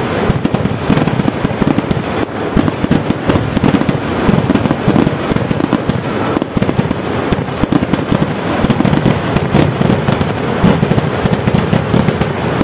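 Kerala festival fireworks (vedikkettu) going off in a dense, unbroken barrage of loud firecracker bangs, many to the second with no pause.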